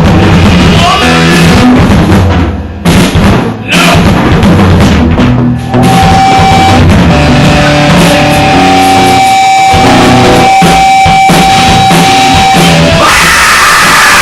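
Rock band playing loud in a practice room: drum kit, electric guitar and bass. There are a couple of short stops about three seconds in, then a long held note rings over the drums for several seconds.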